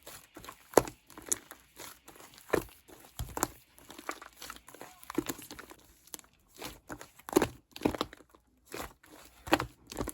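Clear slime mixed with shaving foam being squished and pressed by hand, giving irregular sticky pops and clicks.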